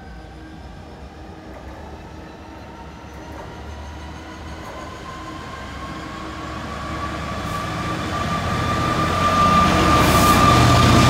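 A train approaching, growing steadily louder, with a whine that climbs slowly in pitch and becomes prominent over the second half.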